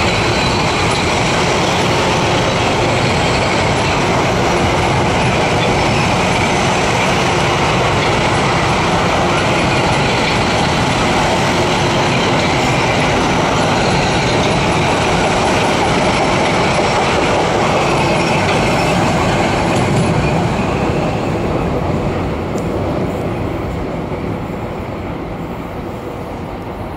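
Metro-North electric multiple-unit commuter train running past close by on the elevated track: a steady, loud rush of wheel and rail noise that fades away over the last several seconds.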